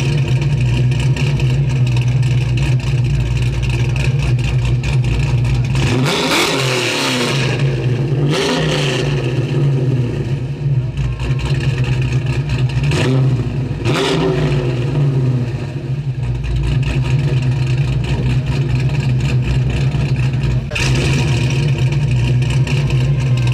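A car engine running with a steady low drone. Its pitch sweeps up and down briefly a few times, as in revs or passing cars.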